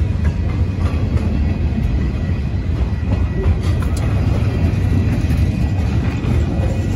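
Freight train of boxcars rolling past, a steady low rumble of steel wheels on rail.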